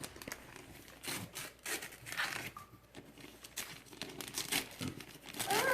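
Paper crinkling and tearing in short, irregular crackles as a present is unwrapped.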